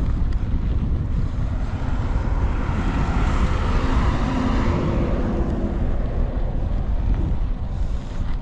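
Wind buffeting the microphone during a bike ride, a steady low rumble; a louder rushing swell builds and fades in the middle.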